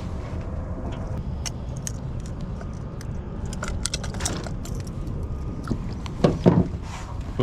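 Quick light clicks and jingling of a metal crankbait and its treble hooks being handled, with a few heavier thumps near the end, over a steady low wind rumble.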